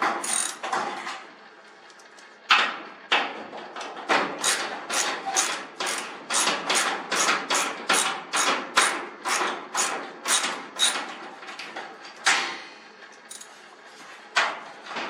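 Tools working the garage door's top roller bracket loose. It is a run of sharp metallic knocks, about two or three a second, that stops briefly near the end and then gives two more knocks.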